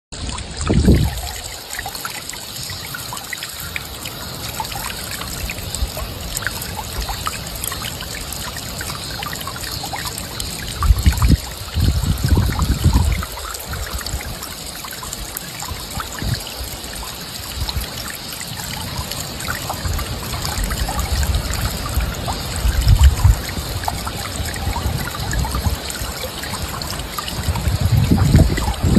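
Water trickling steadily, like a small stream, with scattered small splashes and a few low rumbling swells.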